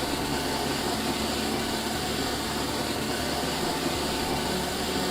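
Drawer Vac drawer inlet open, with the central vacuum's suction running as a steady rush of air.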